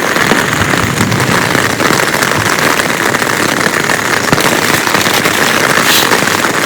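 Heavy rain falling steadily: a dense, unbroken patter of drops striking a surface.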